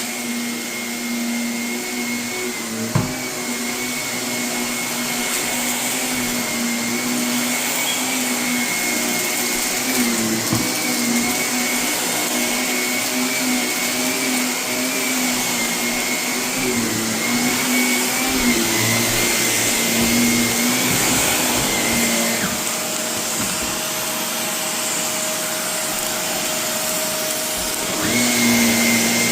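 Vacuum cleaner running over carpet, picking up construction debris left by painting and renovation. Its motor hum wavers in pitch as it is pushed along. A sharp click comes about three seconds in. The tone shifts about two-thirds of the way through and comes back louder near the end.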